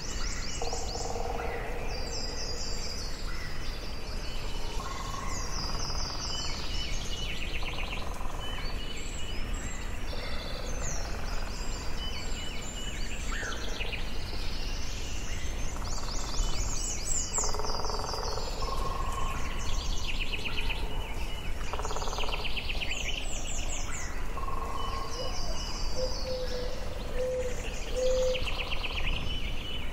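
Forest birdsong: several birds singing and calling, with many short high trills and chirps and some lower whistled notes, including a run of short repeated low notes near the end, over a steady low background noise.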